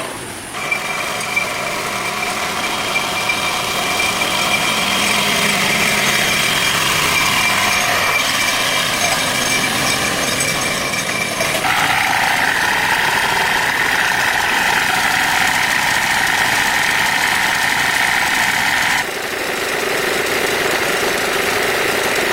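Steady mechanical running noise, an engine or power tool, with a high whine. It changes abruptly twice partway through.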